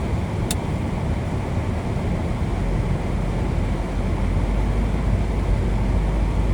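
Steady road and engine noise inside a moving car: a low rumble with a hiss over it and a faint click about half a second in.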